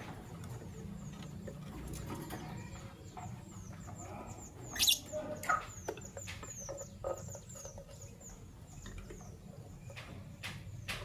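Fischer's lovebirds chirping: a steady stream of rapid, high, thin chirps, with a louder sharp shriek about five seconds in and a few short calls near the end.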